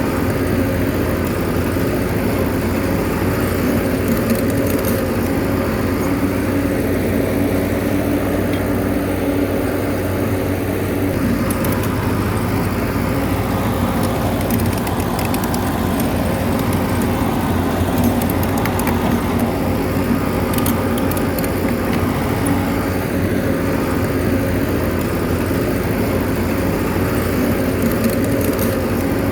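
Bulldozer's diesel engine running steadily at an even pitch, with faint clicks now and then.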